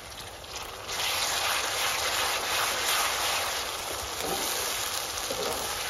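Chopped onions with garlic and ginger paste frying in hot oil in a wok: a steady sizzle that grows clearly louder about a second in as the mix is stirred with a slotted spoon.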